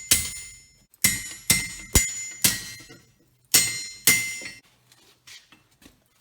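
Hammer blows on an anvil forging a spring-steel knife blade, each strike ringing. About two a second in two runs of blows, then a few light taps near the end.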